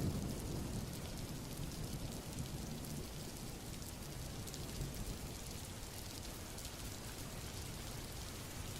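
Steady rain falling, a dense patter of drops, with a low rumble easing off in the first second.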